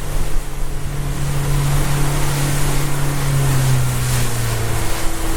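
A fishing boat's engine running steadily, its hum dropping in pitch in the last couple of seconds as the engine slows, over wind and splashing sea.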